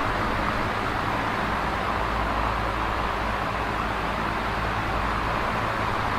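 Large box fan running steadily: an even whoosh of moving air over a low motor hum.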